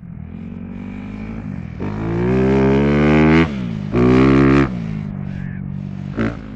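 Motorcycle engine running low and steady, then revving up twice: a long rising rev, a sudden drop, a shorter second rev, then back down to a steady low run with one quick blip near the end.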